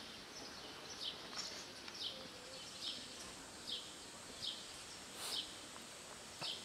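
A bird calling over and over in short, high, falling chirps, roughly one a second, over faint steady outdoor hiss.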